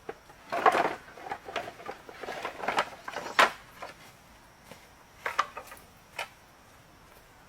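A run of irregular knocks, taps and short scrapes of hard objects being handled. They come thickest in the first few seconds, the loudest knock is about halfway through, and a few sharper taps follow later.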